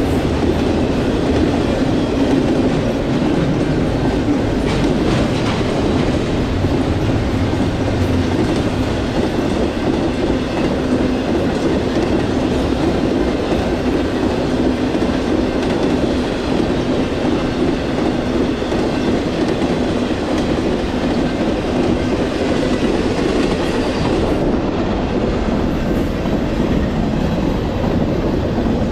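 Intermodal freight train's double-stack cars rolling past, with steady wheel-on-rail noise at an even loudness.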